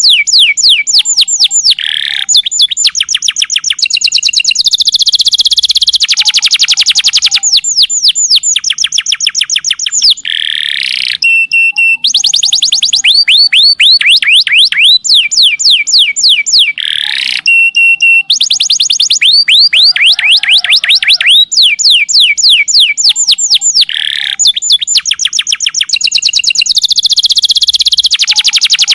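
Domestic canary singing long, rapid trills: fast runs of repeated high sweeping notes, switching to a new trill every second or two, with a few short held whistles between them.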